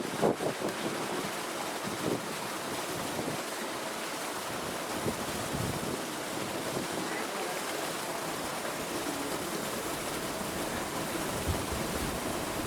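Steady rushing noise, with a few louder bumps right at the start.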